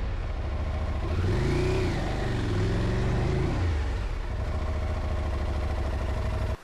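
Adventure motorcycle engine revving up and down twice, then running steadily, while the bike is stuck with its wheel dug into the steep dirt track. The sound cuts off suddenly at the end.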